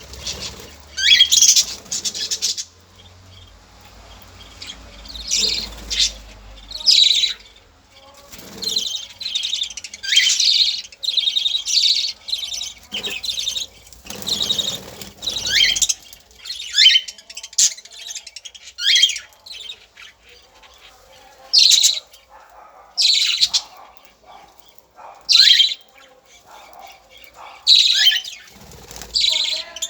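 Small birds calling and chirping: short, sharp, high-pitched calls that often sweep downward, one or two every second or so, in irregular bursts.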